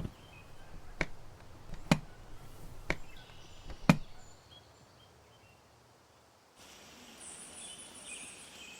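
Five sharp knocks about a second apart, like blows of a tool on wood. After them, faint high bird chirps over a steady outdoor hiss.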